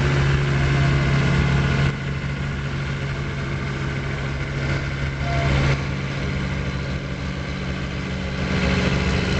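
Vehicle engine running steadily under load. Its sound drops about two seconds in, swells briefly for a moment around five and a half seconds, then rises again near the end.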